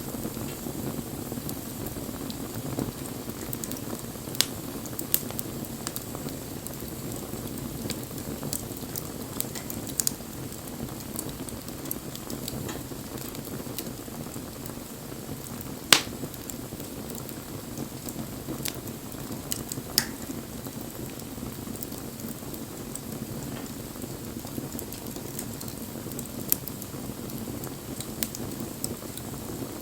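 Wood fire burning with a steady low roar and scattered sharp crackles and pops, one louder pop about halfway through.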